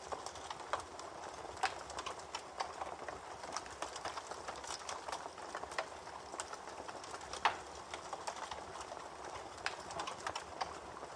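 Campfire crackling, with frequent sharp, irregular pops and snaps over a steady rush of a babbling creek.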